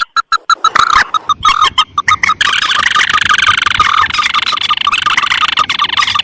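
Recorded calls of paddy-field rails, the mandar and tikusan (crake), played as a bird lure: a run of sharp, quickly repeated notes, then from about two and a half seconds in a fast, unbroken trilling chatter.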